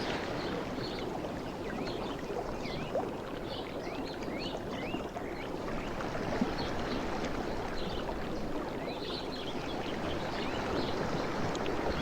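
Seawater washing and lapping in a steady wash, with many short, high chirping or trickling sounds scattered through it.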